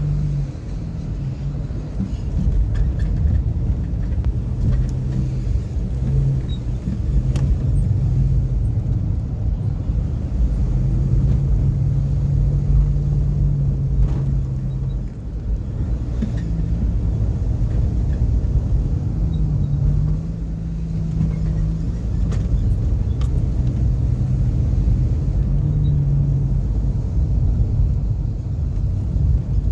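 Car driving along a road: steady low rumble of engine and road noise, the engine note rising and falling in pitch several times as the car speeds up and slows.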